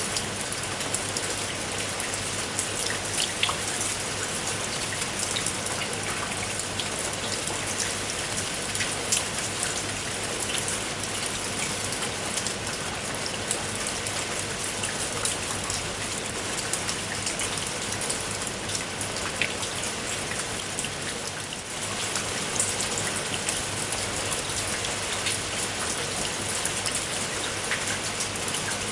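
Steady rain falling, with the patter of many individual drops striking a surface over an even hiss; it eases briefly about three quarters of the way through.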